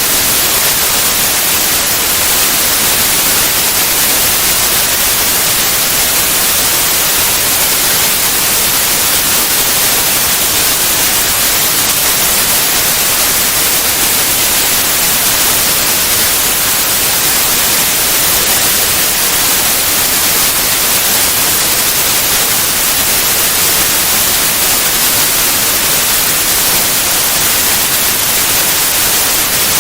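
Steady white noise, an even hiss across all pitches that does not change.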